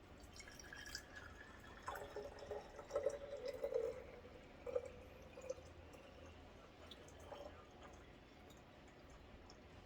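Water poured from a plastic water bottle into a single-cup coffee maker's water reservoir, splashing and gurgling for a few seconds from about a second in, loudest in the middle, then a few faint drips.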